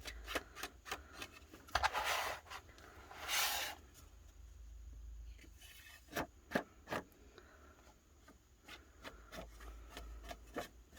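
Edge of a sheet of stark white computer paper being inked: an ink applicator rubbed along the paper edge in two longer scuffing strokes a couple of seconds in, with many light taps and dabs scattered throughout.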